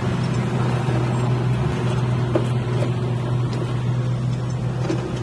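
Land Rover engine running steadily at idle, an even low hum with a few faint clicks over it.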